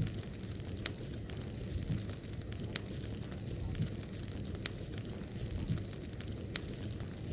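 Wood bonfire burning: a steady low rush of flame with sharp crackling pops, the loudest snaps coming about once a second.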